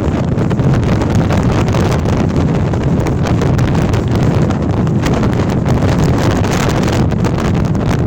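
Gale-force wind blowing hard across the microphone: a loud, continuous rushing rumble with constant buffeting.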